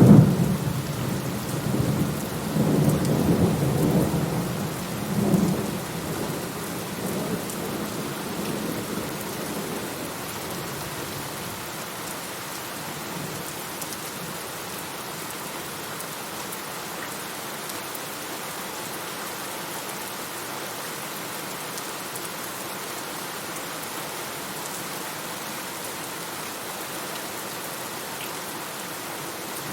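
Thunderstorm: a thunderclap right at the start rolls on as a rumble for about six seconds, swelling again around five seconds in, then fades into steady heavy rain.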